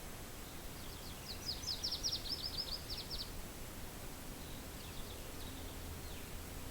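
A songbird singing a fast trill of short, high repeated notes for about two seconds, with a fainter few notes a little later, over a steady low wind rumble.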